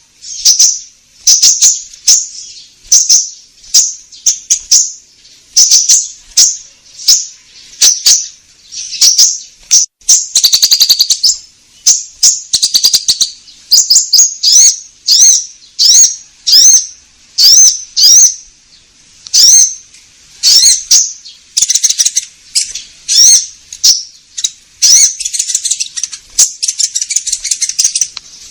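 Konin songbird singing: loud, short, high chirps repeated about once or twice a second, with a fast trill about ten seconds in and denser chattering in the last few seconds. It is a bird-keepers' lure song, meant to set other birds singing.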